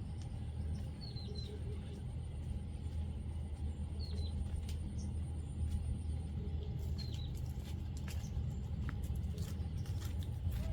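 Steady low rumble with a few short, high bird chirps, in pairs about a second, four seconds and seven seconds in.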